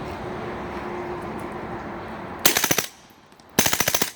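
Suppressed 9mm post-sample M16, with a 5.5-inch barrel and a SilencerCo Omega 9K, firing 147-grain subsonic ammunition on full auto in two short bursts, the first about halfway in and the second near the end. It is pretty quiet, and a steady background noise comes before the first burst.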